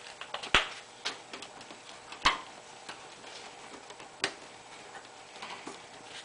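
Scattered sharp clicks and knocks, like parts or tools being handled, with three louder ones about half a second, two and a quarter and four and a quarter seconds in; no engine is running.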